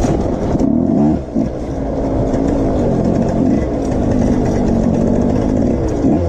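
A vehicle engine running hard under way: the revs dip briefly about a second in, then climb and hold steady, falling again near the end.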